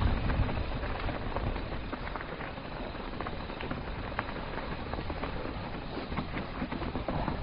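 Mountain bike riding down a dirt singletrack: a steady rush of tyre and wind noise with scattered clicks and rattles, a little louder in the first second.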